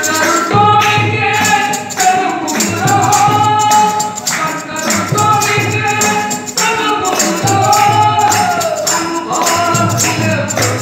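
Ektari bhajan: a devotional song sung to a plucked one-string ektari with jingling hand percussion keeping a steady beat.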